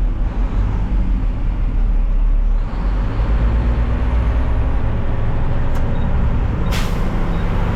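Front-load garbage truck's diesel engine running at low speed while manoeuvring slowly, its note rising a little about three seconds in. A short, sharp hiss near the end.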